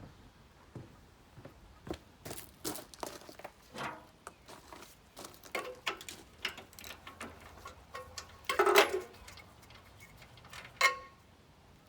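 Irregular clinks and knocks of hand tools and small metal parts being handled, the loudest about nine seconds in, and a sharp clank with a short ring near the end.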